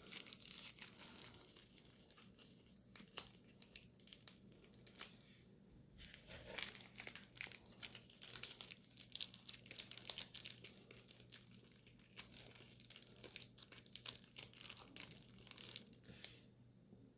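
Trading card packs' wrappers crinkling and crackling as the packs are handled and sorted into stacks, a quick run of small crinkles with a short lull about five seconds in, stopping just before the end.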